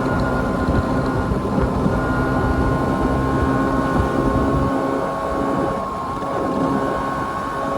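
Vespa Super scooter's two-stroke single-cylinder engine running at a steady pitch, with a low rumble of wind that eases about two-thirds of the way through.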